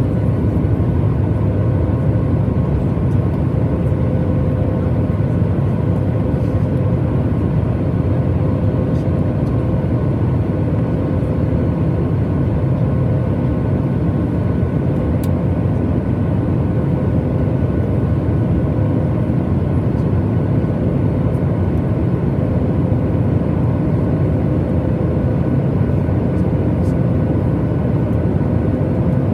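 Steady in-cabin noise of a Boeing 737 MAX 8 with its CFM LEAP-1B engines running: a deep, even rumble with a faint steady hum of a few tones on top, unchanging throughout.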